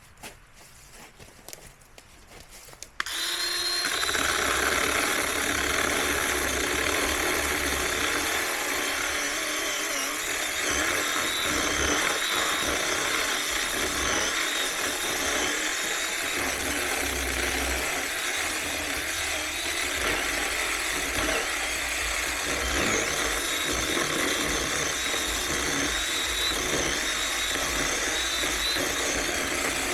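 Small electric chainsaw starting suddenly about three seconds in, then running steadily with a high whine as it cuts wood.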